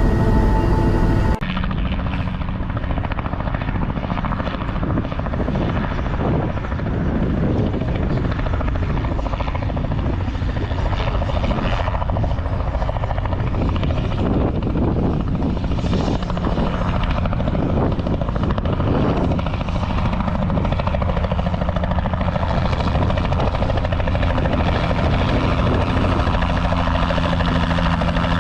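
Steady helicopter engine and rotor noise as heard from inside the cabin in flight. It begins abruptly about a second in, cutting in from a different steady tone.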